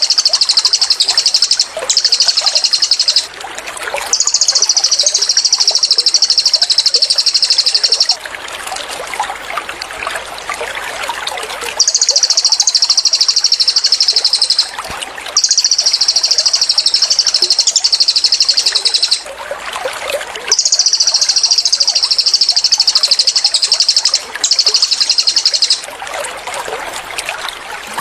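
A cililin bird repeats its high, rapid-fire trill ('tembakan') in bursts of one to four seconds with short pauses between them. A steady trickle of running water sounds underneath.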